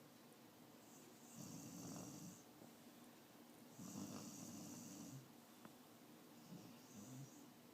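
A sleeping dog snoring faintly: two snores about two and a half seconds apart, then a weaker third near the end.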